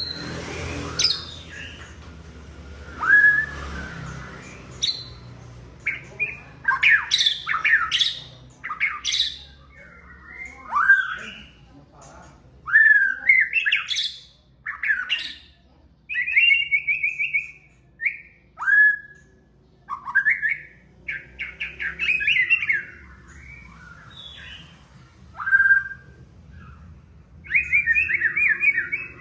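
White-rumped shama (murai batu) singing a varied run of phrases: whistles, fast trills and sharp downward-sweeping notes. The phrases come sparsely at first, then follow one another closely from about six seconds in.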